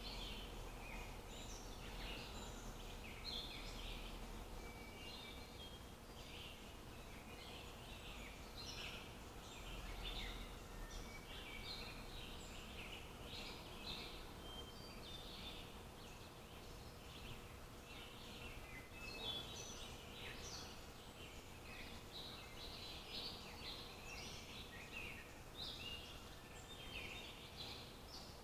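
Small birds chirping in many short, overlapping calls, with a faint steady hum and a low rumble underneath.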